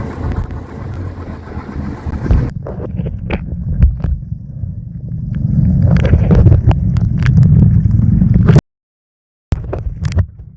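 Boat engine running under a rough, low rumble of wind on the microphone, with scattered knocks. It grows louder about two-thirds of the way in, then cuts off abruptly, and a short burst follows near the end.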